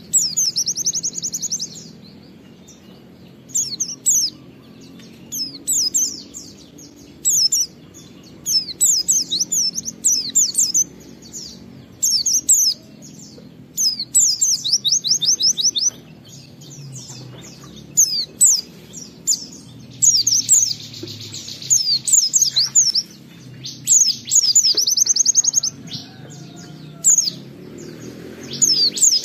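Pleci (white-eye) singing in repeated high bursts of rapid down-slurred notes, each lasting about half a second to two seconds, with short gaps between. A faint low steady hum runs underneath.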